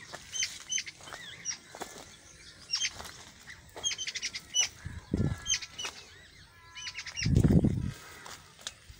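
Small birds chirping: many short, sharp, high calls repeated throughout. A brief low rumble comes about five seconds in, and a louder one, the loudest sound, from about seven to eight seconds.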